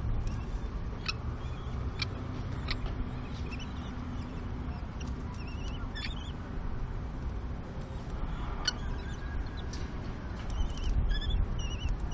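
Common kestrel chicks giving faint, high, wavering squeaks, several short ones in the second half, over a low steady rumble of wind on the microphone, with a few sharp clicks.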